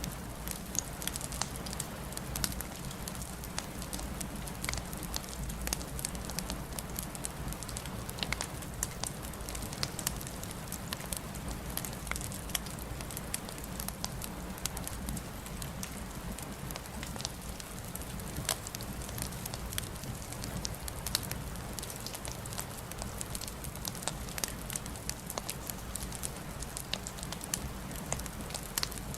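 Wood fire crackling in a fireplace: many sharp pops and snaps over a steady low rumble.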